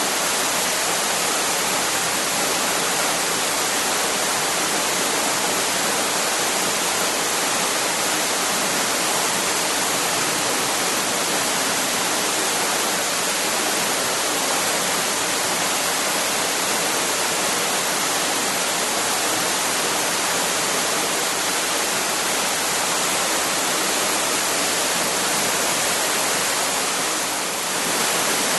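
Waterfall: water falling and splashing in a steady, even rush, with a brief slight dip near the end.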